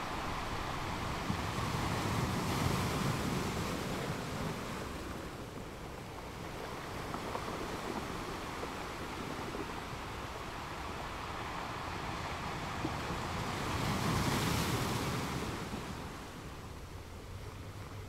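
Ocean surf washing onto a beach, swelling twice as waves break, a few seconds in and again late on, with wind on the microphone.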